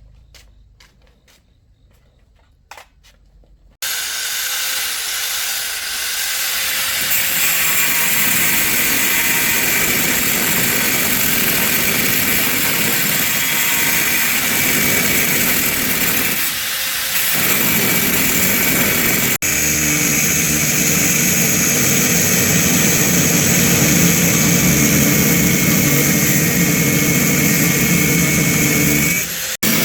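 A few faint clicks, then about four seconds in a machine starts and runs loud and steady, with a strong hiss and a few steady tones.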